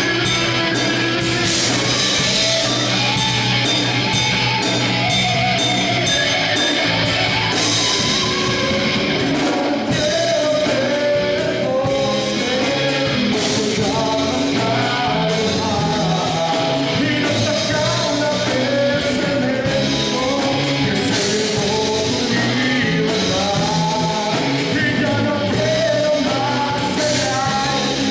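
Rock band playing a song with a sung vocal line, electric guitar and drum kit.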